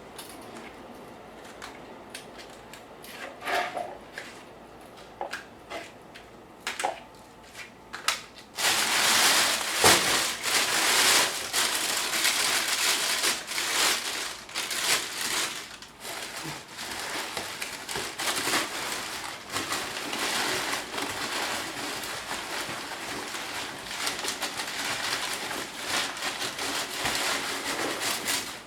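Newspaper being crumpled and handled: scattered light rustles and clicks at first, then about eight seconds in a loud, continuous, irregular crinkling.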